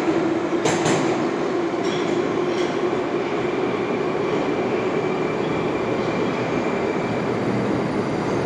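Metro train running on the rails: a steady rumble with a drone that drifts slightly lower, and a few sharp rail-joint clicks about a second in.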